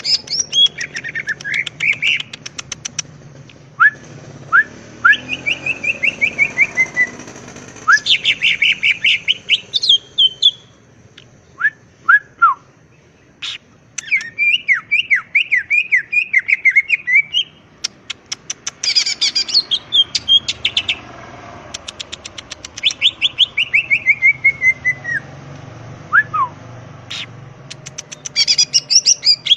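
Green leafbird (cucak ijo) singing in full voice: repeated phrases of rapid chirps, each run sliding down in pitch, separated by short pauses.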